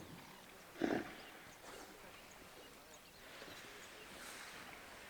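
A short, loud animal call about a second in, over faint high chirps.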